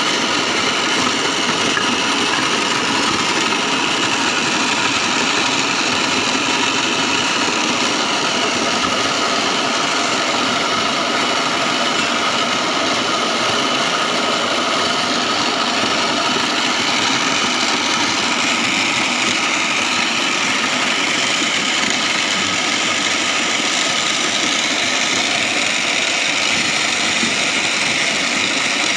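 Foam shredding machine for pillow stuffing running steadily, its motor humming under a dense, even noise.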